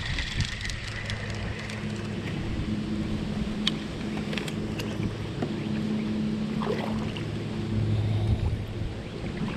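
Small boat's motor humming steadily, its pitch holding while its level swells and fades, over wind and water noise with scattered clicks and knocks.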